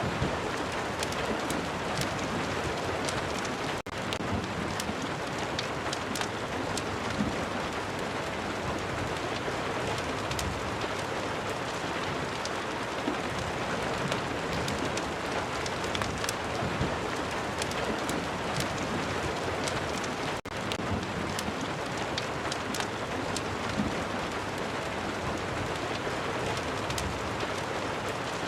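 Steady rain with many short sharp crackles scattered through it, a rain and crackling-fireplace ambience. The sound drops out for an instant twice, about 4 seconds in and about 20 seconds in.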